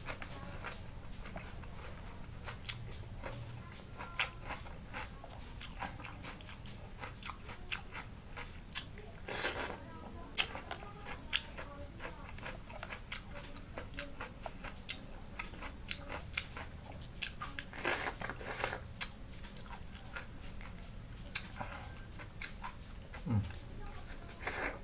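Close-up mouth sounds of a person eating cooked rice-field snails and rice: chewing and smacking with many small clicks, and two louder, longer bursts about 9 and 18 seconds in.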